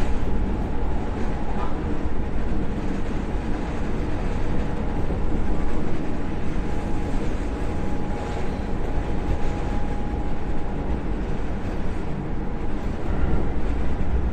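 Keisei 3700 series electric train running at speed, heard from inside the car: a steady low rumble of wheels on rail with a faint steady whine.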